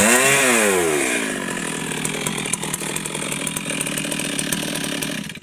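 Stihl MS 382 two-stroke chainsaw revved once, its pitch climbing and then dropping back within about a second. It then runs steadily at a lower speed with a rattly crackle. The sound stops abruptly near the end.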